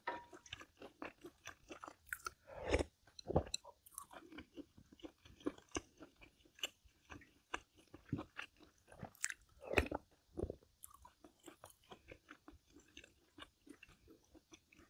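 A person chewing food with crunchy bites, a run of small clicks and smacks, with a few louder bites about three seconds in and again about ten seconds in.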